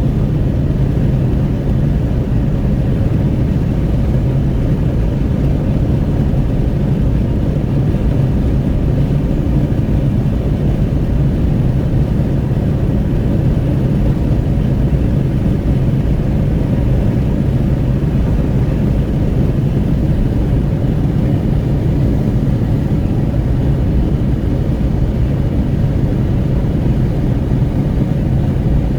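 Cabin noise of a Renault Kwid 1.0 cruising on a highway with a window open: steady low wind buffeting mixed with tyre and road rumble and engine drone.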